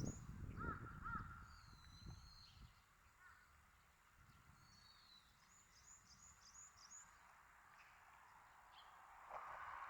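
Birds calling faintly: two short arched calls about half a second apart near the start, then runs of quick high chirps, the clearest run about six notes long around the middle. Near the end a steady hiss comes in.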